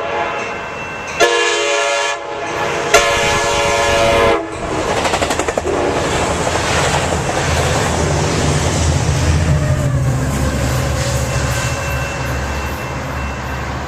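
Amtrak Surfliner passing at speed, its cab car's K5LA air horn sounding a short blast and then a longer one. Then come the rush and clatter of the wheels on the rails, with the low drone of the F59PHI diesel locomotive building as it goes by.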